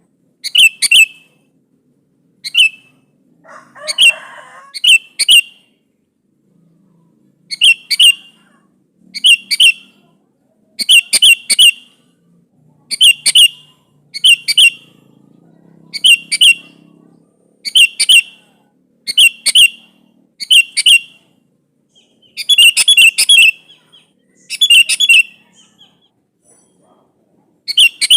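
Sooty-headed bulbul calling over and over in short, sharp phrases of two or three notes, about one a second with a few pauses: a lively bird's challenge call to a rival.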